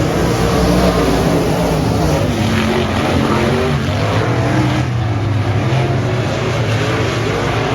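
Dirt-track race car engines running on the track, their pitch rising and falling.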